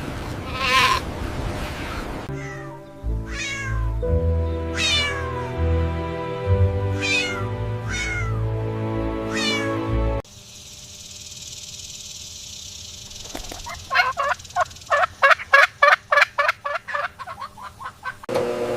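Repeated falling animal calls, about one every second and a half, over background music with held notes. The music cuts off partway through, leaving a steady hiss, and near the end comes a rapid run of short calls, about three or four a second.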